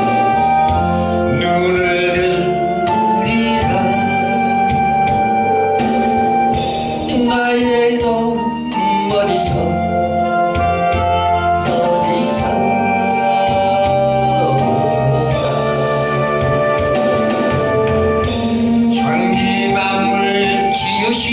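A gospel song: a singing voice over sustained electronic organ chords.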